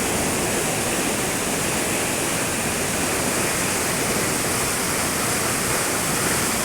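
A swollen river in flood, its water rushing with a steady, even noise.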